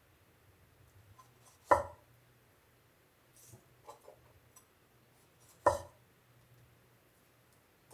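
Two sharp knocks of hard objects, about four seconds apart, with a few faint clicks between them over a low steady hum.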